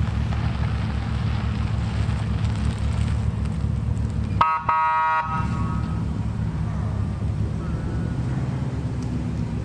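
Car engine idling with a steady low pulsing rumble. About four and a half seconds in, a car horn gives one short toot lasting under a second.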